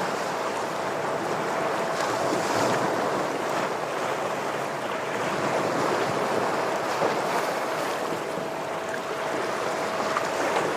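Ocean waves washing and breaking against shoreline rocks, the surf swelling and easing in a continuous wash. A faint steady hum runs through it.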